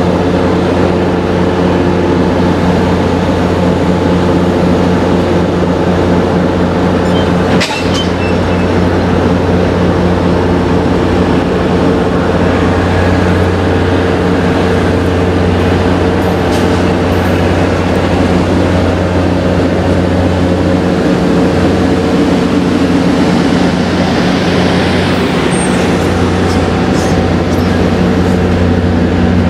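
MBTA commuter train passing slowly at close range: a loud, steady drone from its diesel locomotive over the rumble of the coaches, with one sharp clank about eight seconds in.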